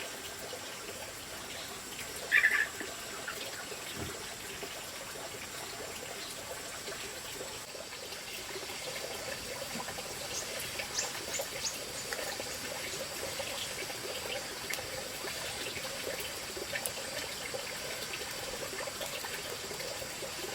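Water trickling steadily, with scattered faint ticks and one brief, louder sound about two and a half seconds in.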